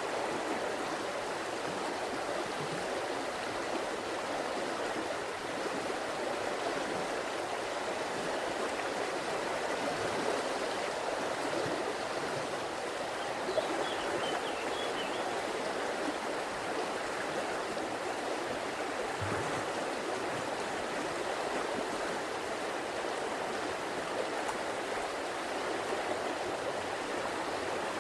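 River water flowing steadily, an even, unbroken running-water sound.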